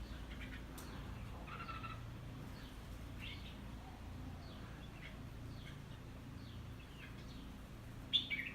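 Red-whiskered bulbul (crested bulbul) calling: short, scattered chirps, with a louder call near the end, over a steady low background hum.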